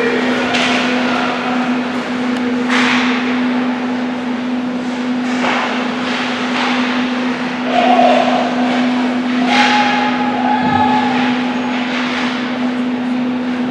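Ice hockey game play: repeated skate scrapes on the ice and occasional knocks of sticks or puck, over a steady arena hum.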